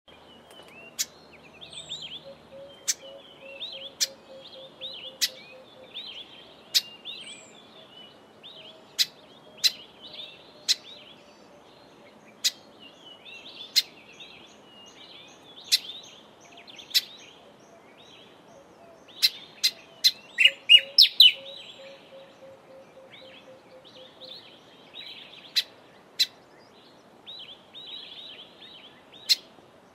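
Grey sunbird calling: sharp, loud single chips every second or two over a continuous jumbled twittering song, with a quick run of chips about twenty seconds in.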